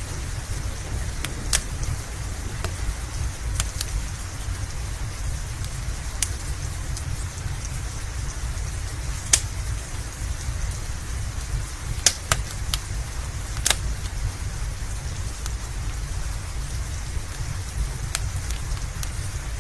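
Steady rain with a low rumble underneath, and the sharp pops of a crackling wood fire scattered through it, a few louder pops standing out.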